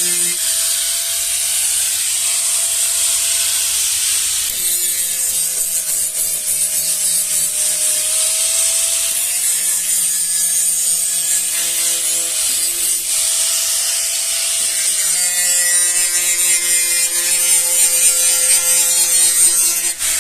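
A small electric tool motor runs with a steady buzz and a rasping, rubbing sound; its pitch shifts slightly a few times.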